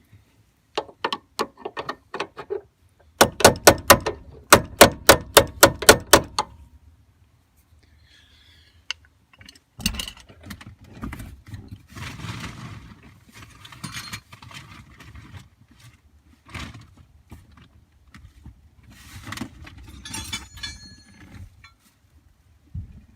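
Rapid hand-hammer blows on the steel hinge pin and hinge of a GM truck door, about four a second in two runs, the second louder and longer, each blow ringing sharply. They are followed by quieter clinks and rattles of tools and metal parts. This is the work of freeing the worn factory hinge pin.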